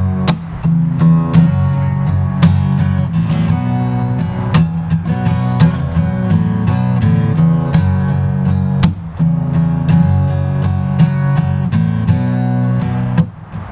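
Acoustic guitar strummed steadily with no singing, an instrumental passage of the song.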